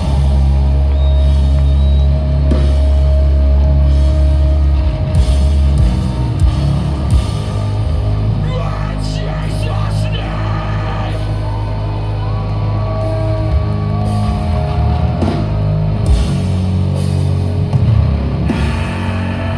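A heavy metal band playing live and loud: distorted guitars and bass holding a heavy low drone, with drums and vocals. Sustained single tones ring over it, like guitar feedback.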